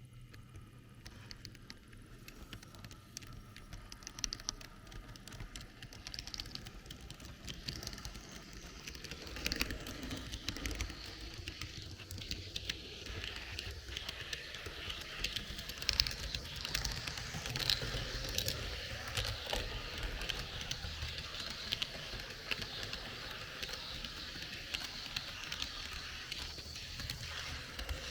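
H0 scale model train running along the layout, with its wheels clicking and rattling over the track and a low hum underneath, heard from on board. The clatter grows louder about ten seconds in.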